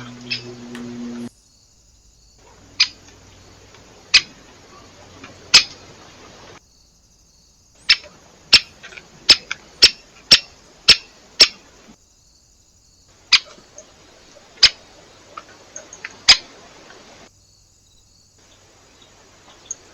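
Sharp pecking taps at a bird feeder, single hard clicks coming irregularly and at times about two a second. A low steady hum runs for about the first second.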